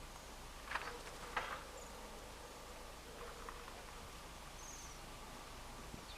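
Small wintering birds: two short, sharp ticks about a second in, a few fainter ones later, and one faint high twitter near the end, over a steady low hiss.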